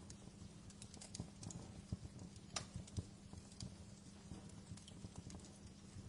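Wood fire in a fireplace crackling, with irregular small snaps and pops and a sharper pop about two and a half seconds in.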